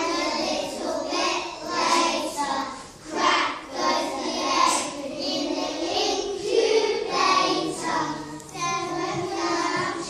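Children singing together in phrases of about a second each.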